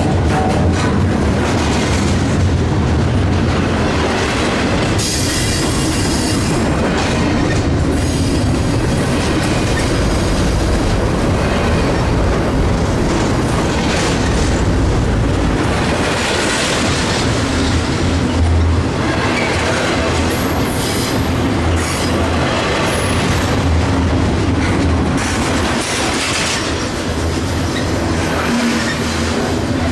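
Freight train cars rolling past close by: a steady rumble of steel wheels with a clickety-clack over the rail joints, and faint high wheel squeal now and then.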